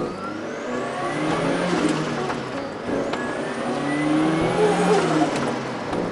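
Turbocharged Mazda MX-5 Miata four-cylinder engine accelerating hard in two pulls with a gear change about halfway. During each pull the engine note climbs, and a high turbo whistle rises with it.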